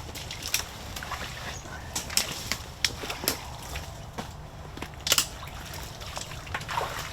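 Irregular sloshing and splashing of someone wading through shallow water to reach a downed deer, with a louder splash a little past the middle.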